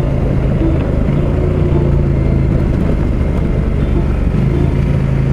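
KTM 890 Adventure R Rally's parallel-twin engine running at a steady speed while riding, heard with heavy wind noise on a helmet-mounted microphone.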